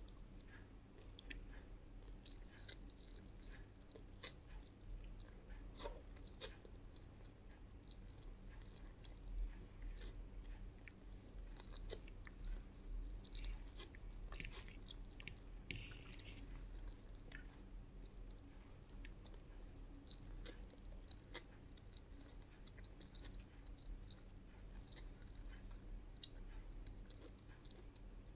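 Soft, close-up chewing of a meal of rice, fried egg and fried fish, with many small scattered clicks and crunches as the food is bitten and chewed.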